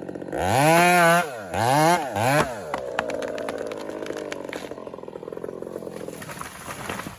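Chainsaw idling, then revved up and let back down three times in quick succession before settling to a steady idle, with a few sharp cracks or knocks along the way; it cuts off suddenly at the end.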